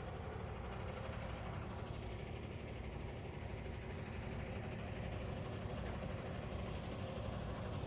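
Heavy diesel engine idling steadily, a low even hum with no revving or changes.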